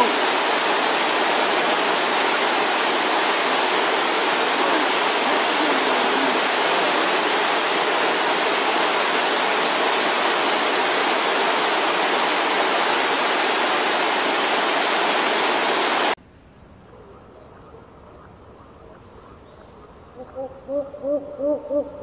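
Rushing stream water, steady, then cut off abruptly about 16 seconds in. After a few quieter seconds, a rufescent tiger-heron starts a series of low hooting calls, about two or three a second, near the end.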